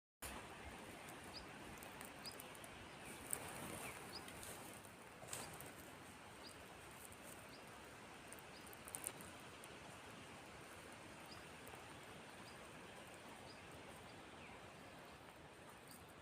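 Quiet forest ambience with a bird repeating a short, high call about once a second over a soft steady hiss, and a few brief clicks.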